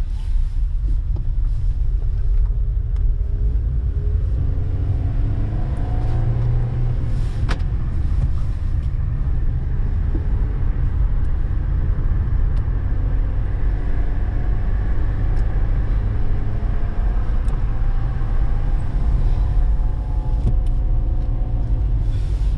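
A car driving on the road: a steady low engine and road rumble, with the engine note rising twice as the car picks up speed.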